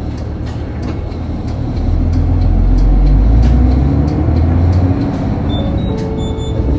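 Diesel engine of a city route bus running while the bus is under way, heard from inside the cabin; the low rumble swells as the bus accelerates from about two seconds in and eases off about five seconds in. A few brief high electronic tones sound near the end.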